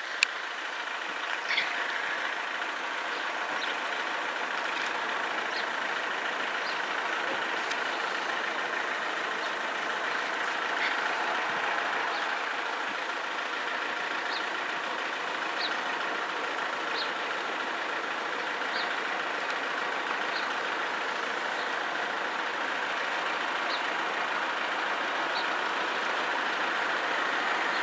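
Steady mechanical noise of road vehicles idling while held at a level crossing, with faint light ticks every second or two.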